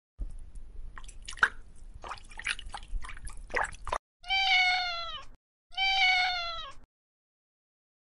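Domestic cat meowing twice, each meow about a second long and falling in pitch at its end. Before the meows come a few seconds of faint scattered clicks and crackles.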